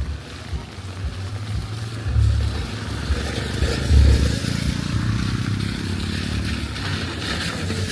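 A motor vehicle's engine passing close by, most audible from about three seconds in until near the end, over a low rumble.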